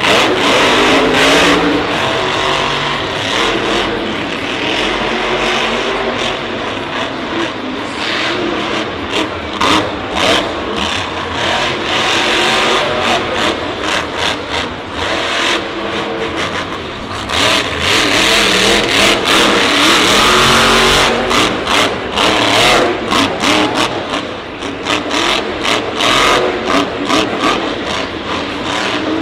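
Monster truck engines running loud and revving hard, the sound swelling and dropping again and again.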